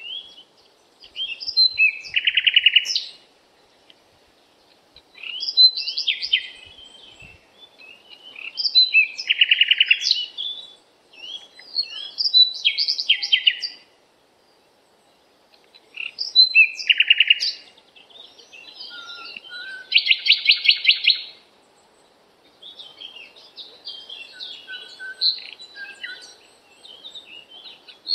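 Songbirds singing: short, bright song phrases every few seconds, with brief pauses between them, over a faint background hiss.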